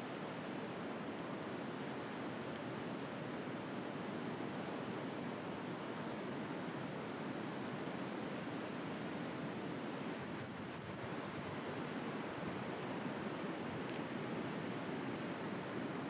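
Steady wash of sea waves and surf, with a few faint crackles from a wood fire.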